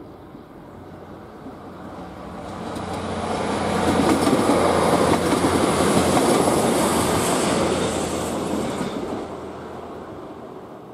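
Passenger train passing close by over a level crossing, wheels running on the rails. The noise builds over the first few seconds, is loudest in the middle, and fades away near the end as the train clears the crossing.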